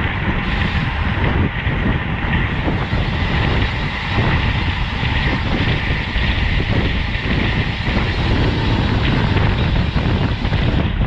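Steady rushing wind and road noise on a road bike's camera microphone while riding at race speed.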